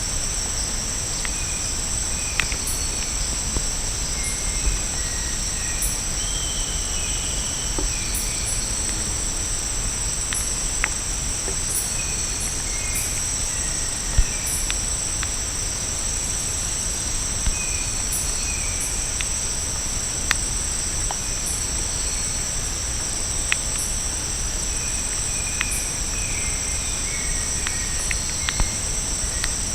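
Rainforest ambience: a steady, high-pitched drone of calling insects, with scattered short bird chirps and a few sharp clicks.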